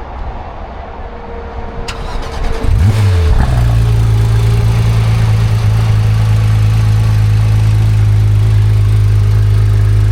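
A car engine cranks and starts about two and a half seconds in, then settles into a loud, steady idle. A sharp click comes just before the start.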